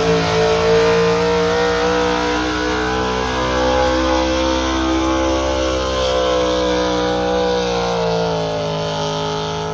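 A pulling truck's engine running hard at high revs under load as it drags the sled. Its pitch climbs a little through the middle of the run and sags slightly toward the end.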